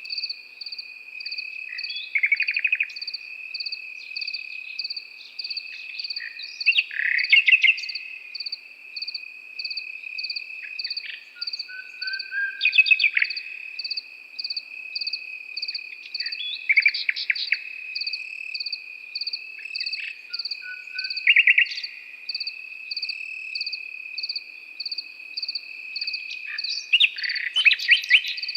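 A nightingale singing short phrases of rapid repeated notes, about six of them a few seconds apart, over the steady, evenly pulsed chirping of crickets.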